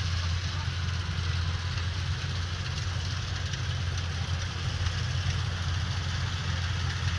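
Kubota DC105X combine harvester's diesel engine running steadily, a deep, even hum under a broad rush of machinery noise.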